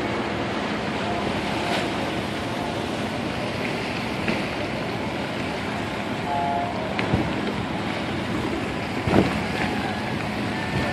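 Steady wind noise on the microphone over water and boat sounds, with two brief knocks, one a little past the middle and one toward the end.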